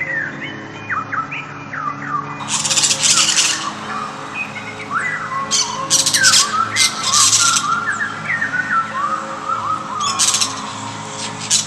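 Several birds chirping and calling in short, quick notes, with three bursts of high, buzzy trilling partway through.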